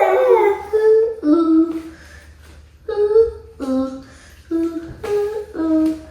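A child humming a tune in short notes of changing pitch, with a pause of about a second midway.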